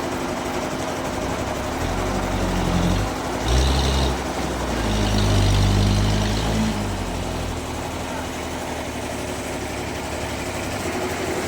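Sawmill machinery running with a steady hum, and a heavier low engine drone that swells in about two seconds in, shifts in pitch a few times, and dies away by about seven seconds.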